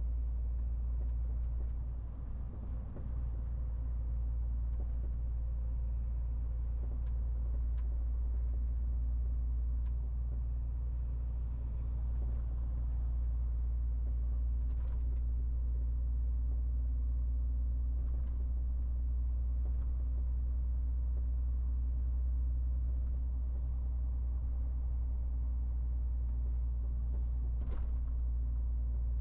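MAN TGX 18.470 truck's inline-six diesel engine running at a steady pace while driving, a deep constant drone with a couple of faint clicks.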